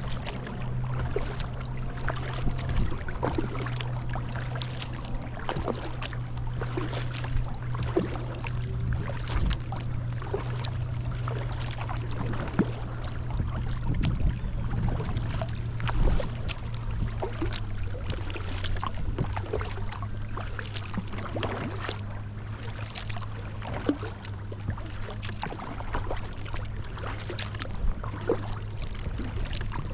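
Kayak paddling: the paddle blades dip into the water, with frequent irregular splashes, drips and light knocks. A steady low hum runs underneath and drops slightly in pitch about two-thirds of the way through.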